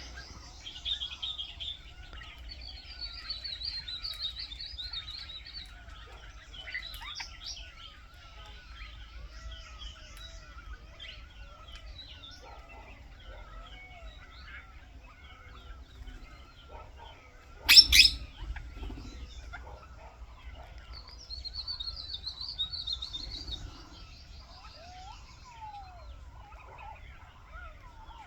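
A chorus of wild birds chirping and calling over each other, with several overlapping songs and a repeating warbling call. About two-thirds of the way through, one loud, sharp burst of sound lasts under a second.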